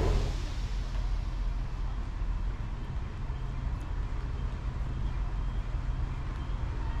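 A train's engine running with a steady low hum.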